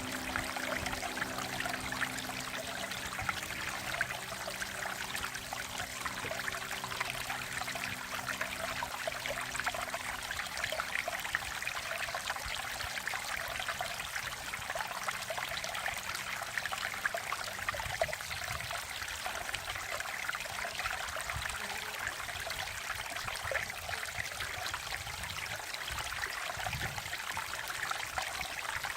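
Mountain valley stream flowing over rocks: a steady, even rush and babble of water with no breaks.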